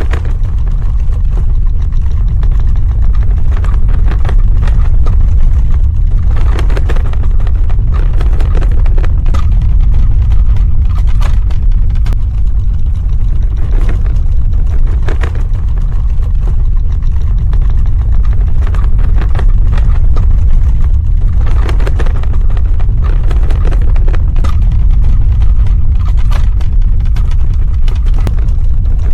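Earthquake rumble sound effect: a loud, steady deep rumble with scattered crackles and rattles over it.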